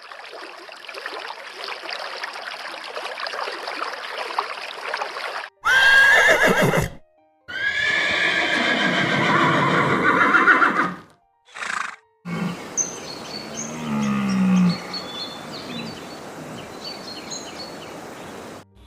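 Horses neighing and whinnying in several short clips cut together: a loud, gliding whinny about six seconds in, another long call from about eight to eleven seconds, and lower, softer horse calls later with small bird chirps above.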